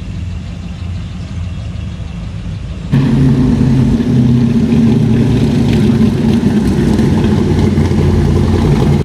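Car engine idling steadily; about three seconds in it switches abruptly to a much louder engine with a deep, steady note.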